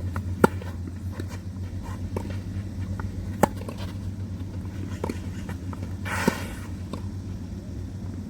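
Tennis ball struck by rackets during a rally: two sharp, loud hits about three seconds apart, with fainter hits and bounces in between and a short scuffing noise near the end, over a steady low hum.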